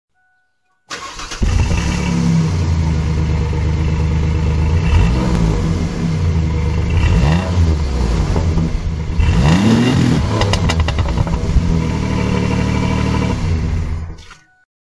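A car engine revving several times, its pitch climbing and falling with each rev, then stopping shortly before the end.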